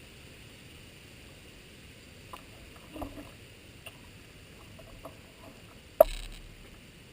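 A few faint clicks and rustles, then one sharp crack about six seconds in, with a short fading tail.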